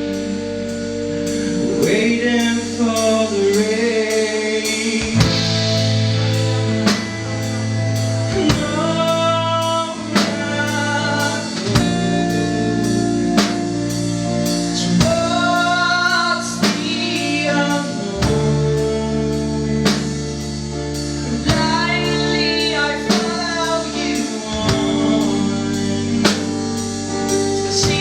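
Live band music: a drum kit keeps a steady beat under guitars and bass, with a melodic lead line bending in pitch over them.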